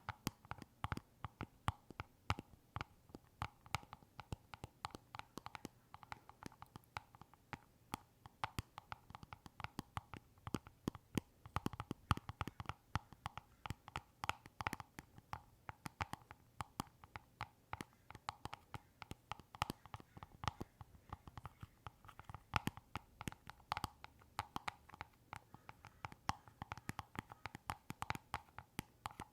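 Close-miked ASMR trigger sounds: quick, irregular clicks and taps, several a second.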